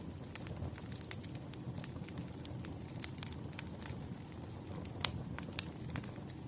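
Burning firewood crackling, with frequent sharp pops over a steady low rush of the flames; one louder pop about five seconds in.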